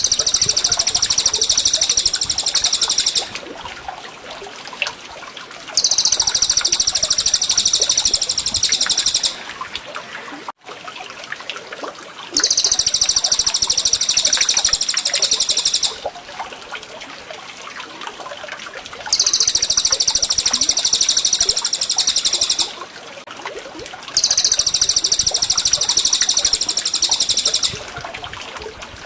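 Looped songbird recording for training cage birds, cucak jenggot and cililin: five dense, high, rapid song phrases of about three and a half seconds each, one every six to seven seconds, over a steady trickle of running water.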